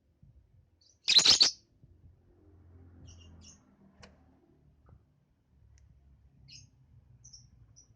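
Young lovebird chirping: one loud, harsh burst of chirps about a second in, followed by faint, short, high chirps scattered through the rest.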